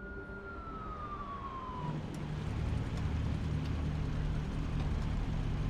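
A motor vehicle running: a steady low engine hum and road noise slowly growing louder, after a single tone gliding downward over the first two seconds.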